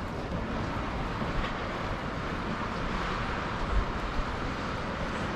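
City street ambience: a steady wash of traffic and crowd noise, with a few faint knocks.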